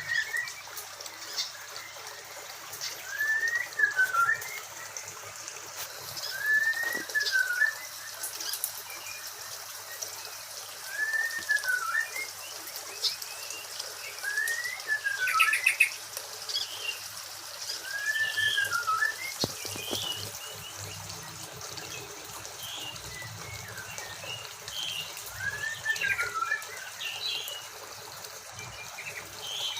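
Birds calling in an aviary: one bird repeats a short whistle that rises and falls, about every few seconds, while others give short, higher chirps in between.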